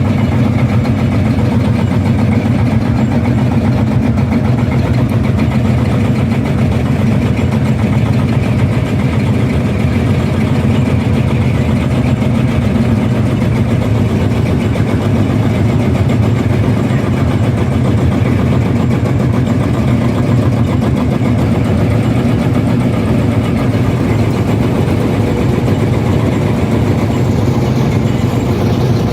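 Tractor engine running loudly and steadily at an even, idle-like speed.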